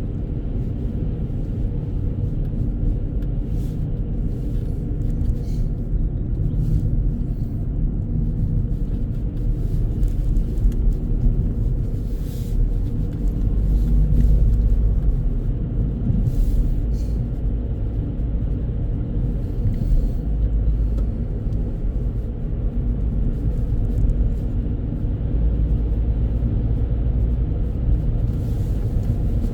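Steady low rumble of a car driving, heard from inside the cabin: engine and tyre noise, with a few faint knocks.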